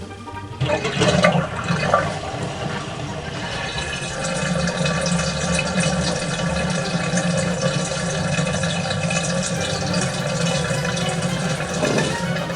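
Water running steadily from a kitchen tap into a sink, starting about half a second in.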